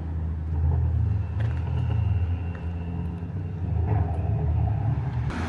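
A car engine running at low revs, a steady deep rumble with no pops or bangs.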